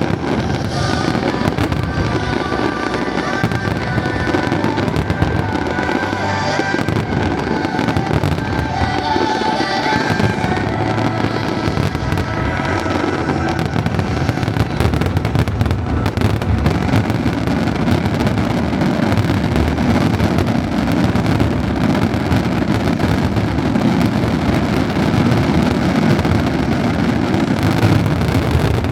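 Aerial fireworks bursting in a rapid, continuous barrage, with music playing along in the first part of the stretch.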